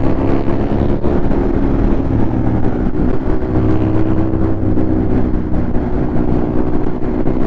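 Ducati Monster 821's L-twin engine running steadily at cruising speed while the bike is ridden.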